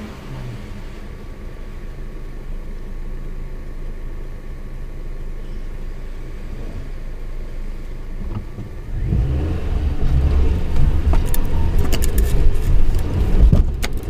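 A 4x4's engine running at a low, steady idle, then getting louder about nine seconds in as the vehicle moves off over a rough lane, with scattered knocks and rattles near the end.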